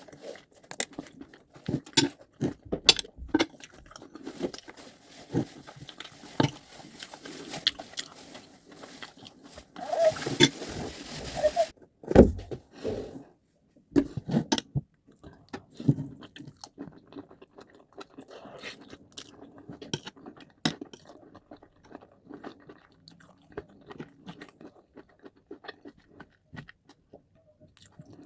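A person eating rice and stew: chewing and mouth noises with irregular clicks and scrapes, and a hissing stretch of about two seconds around ten seconds in.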